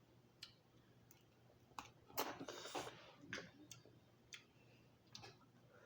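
Quiet eating sounds from someone eating lobster legs: scattered soft clicks and mouth smacks, with a louder, rustling burst a little over two seconds in.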